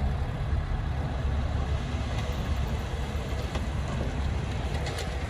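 Diesel engine of heavy earthmoving machinery running steadily, deep in tone, with a few faint clicks near the end.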